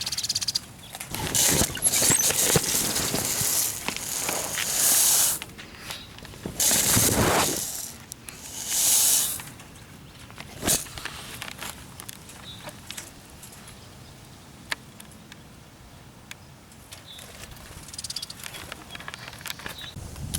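Bursts of rustling and scraping from handling at a bird trap, with a few sharp clicks, growing quieter after about nine seconds.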